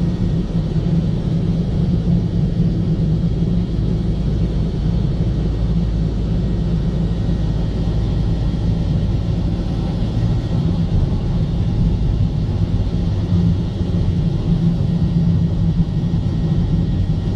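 A car driving at a steady pace, its engine and tyre noise making an even low rumble.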